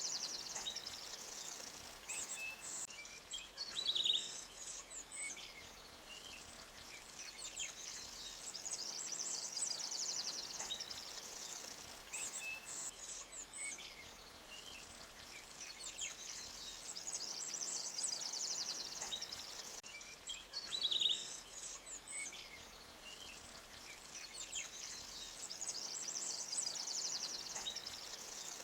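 Forest birdsong: repeated high, fast trills and short scattered chirps over a faint steady hiss, with a louder chirp about four seconds in and again near twenty-one seconds.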